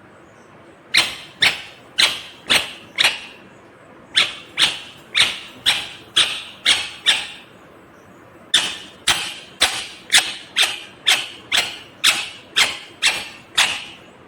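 Indian ringneck parakeet screeching in three runs of short, sharp, loud calls, roughly two a second: about five calls, then eight, then eleven.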